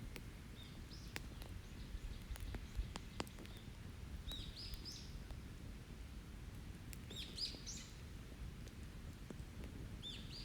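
A songbird singing short phrases about every three seconds, over a steady low background rumble. A few sharp pops from an open wood campfire crackle in between.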